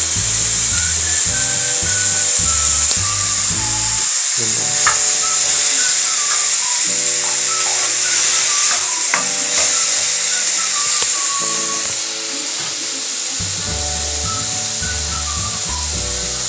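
Vegetables sizzling in a hot frying pan and being turned with a wooden spoon, a steady hiss throughout. Background music with a slow melody and bass notes plays underneath.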